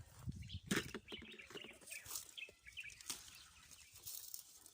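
Small birds chirping briefly about two seconds in, over light rustling and a few sharp clicks.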